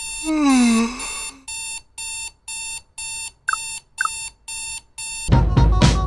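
Electronic alarm beeping steadily, about two beeps a second, opening with a short falling tone and two brief chirps about midway. The beeping stops near the end as music comes in.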